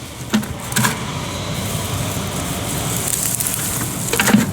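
Garden weeds and plants rustling with a steady low crackle, and a few sharp snaps of stems, one near the start, one about a second in and one near the end.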